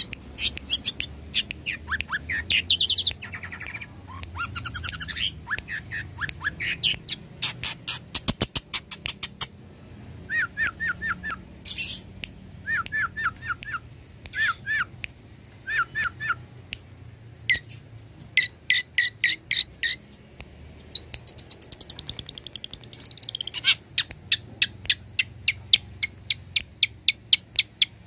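Long-tailed shrike singing vigorously: a varied song made of fast runs of sharp ticking notes and groups of short down-slurred chirps, with brief pauses. The song is packed with calls mimicked from other birds.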